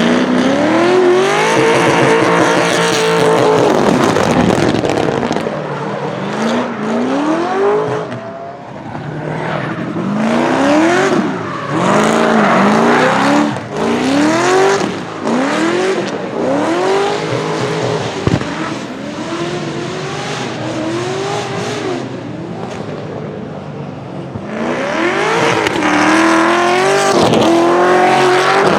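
LS7 427 V8 of a drift-built BMW E30 revving up and down over and over as the throttle is worked through a drift, with tyre squeal. It is loud at the start and again near the end, quieter in between, with one sharp crack about 18 seconds in.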